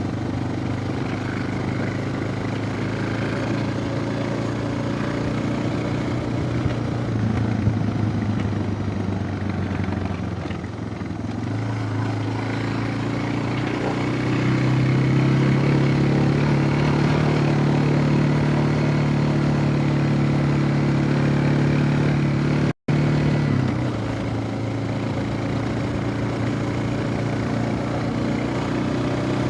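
Suzuki DR650's single-cylinder four-stroke engine running while ridden. The engine note rises about halfway through and holds higher and louder, then the sound cuts out for an instant and returns at a lower pitch.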